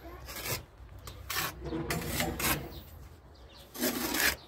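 Trowel scraping tile adhesive onto a fire brick in a series of rasping strokes, the strongest near the end.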